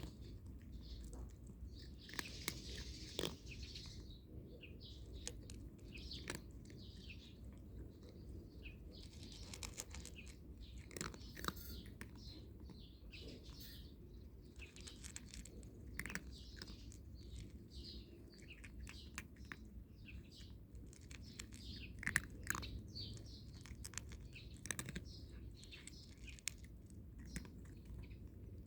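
A cat chewing dry kibble, with irregular small crunches one after another throughout.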